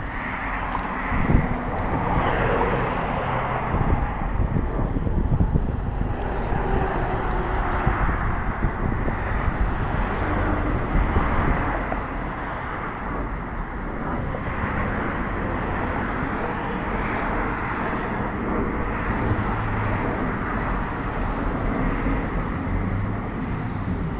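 Jet engines of a private jet taking off and climbing away: a steady rushing noise with a low rumble underneath, holding level throughout.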